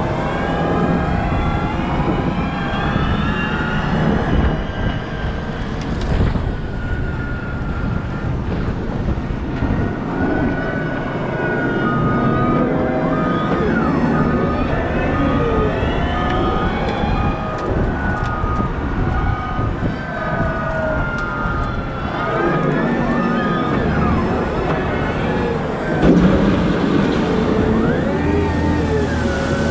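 Caterpillar 972M XE wheel loader at work: the diesel engine runs steadily while drivetrain and hydraulic whines rise and fall in pitch over and over. A reversing alarm beeps about twice a second through the middle of the stretch.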